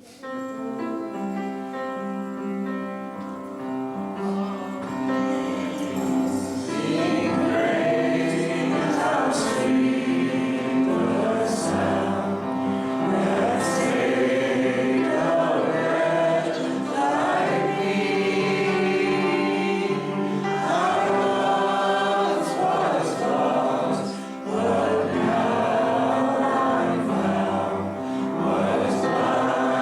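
Gospel hymn music in church: a held chord rings for about five seconds, then a group of voices sings over the accompaniment for the rest of the time.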